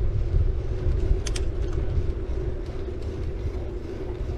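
City bike rolling along, its tyres humming on the road surface with a heavy low rumble of wind on the camera microphone. A short sharp click sounds about a second in.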